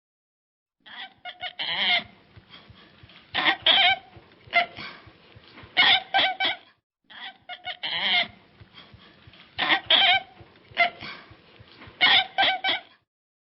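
Chickens clucking: clusters of short calls every second or two, with a short break near the start and another in the middle.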